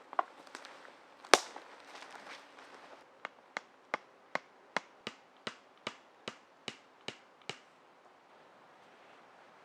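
A tool striking wood: one loud knock, then a run of about a dozen sharp, evenly spaced knocks, two to three a second, which stop a little past the middle.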